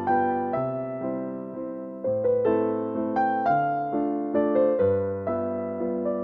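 Soft background piano music: a slow melody of single struck notes over held chords, each note fading after it is struck.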